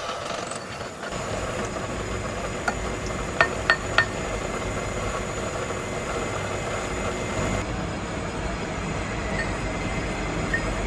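Steady machine hum with a light tick about two and a half seconds in, then three sharp metallic clinks in quick succession.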